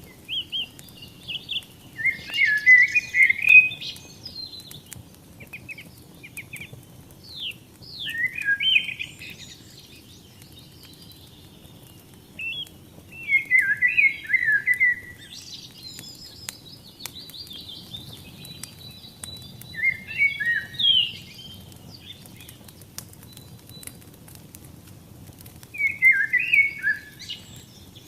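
A songbird singing short warbled phrases, one about every five to six seconds, over the low, steady rumble and faint crackling clicks of a burning fire.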